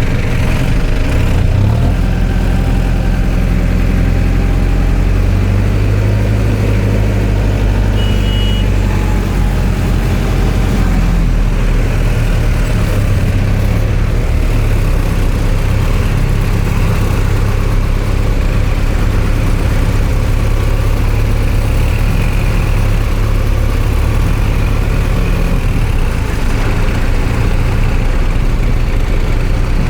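Heavy diesel engines running steadily, with a brief high tone about eight seconds in.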